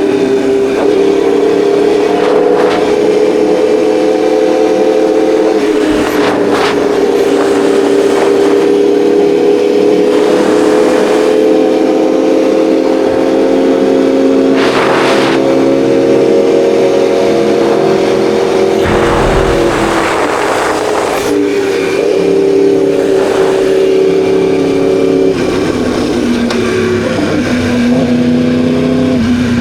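Inline-four sportbike engine running while riding on the street. Its note holds steady, then drops in steps a few times as it changes gear, with rushes of wind and road noise.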